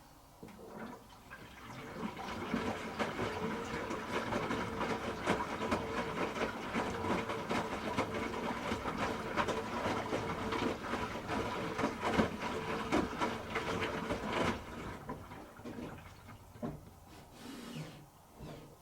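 Water rushing and splashing inside a Hoover H-Wash 300 Plus washing machine, with a faint steady hum under it; it builds up over the first couple of seconds, runs for about twelve seconds, then dies away, followed by a few faint knocks near the end.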